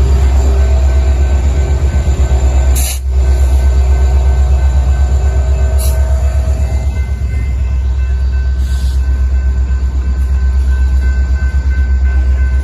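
BNSF freight train rolling slowly past: a steady, loud low rumble with thin, steady squealing tones from wheels on rail, and a few brief sharp knocks.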